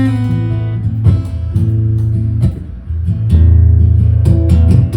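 Acoustic guitar strumming chords over sustained low bass notes, with no singing.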